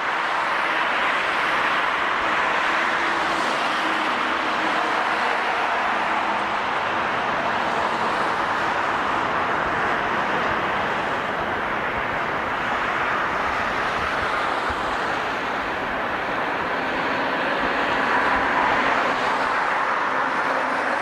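Jet airliner engines running, a steady rushing noise that swells as it begins and holds.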